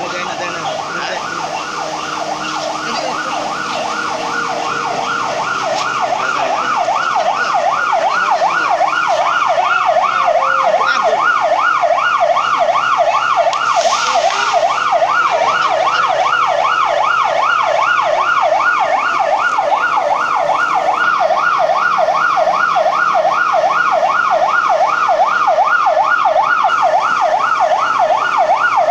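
A siren in a fast up-and-down yelp, about three sweeps a second, growing louder over the first several seconds and then holding steady.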